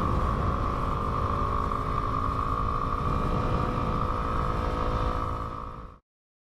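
Yamaha WR250R single-cylinder dual-sport motorcycle engine running steadily while riding, mixed with steady wind rush. It cuts off suddenly to silence about six seconds in.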